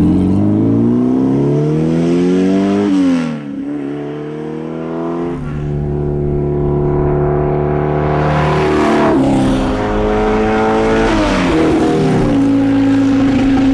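Car engine accelerating hard, its pitch climbing until a gear change about three seconds in. It pulls again at a steady high pitch, drops in pitch twice as it slows, and settles into a steady run near the end.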